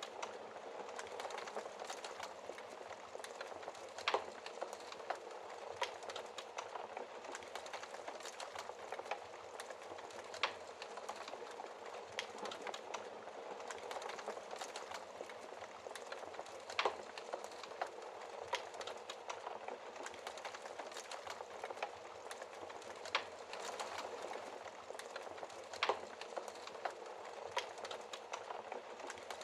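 Wood fire burning in a fireplace: a steady crackling hiss with sharp pops every few seconds, the loudest just past halfway and another near the end.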